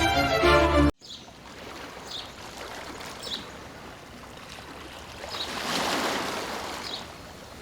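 String music that stops abruptly about a second in, then a steady rush of running water that swells for a moment past the middle, with short faint high chirps every second or so.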